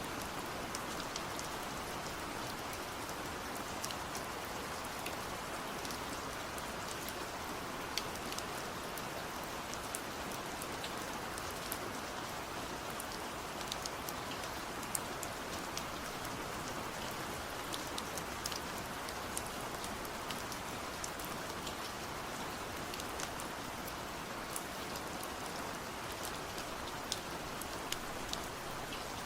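Steady rain falling, with a constant hiss and many separate drops ticking sharply on a hard surface.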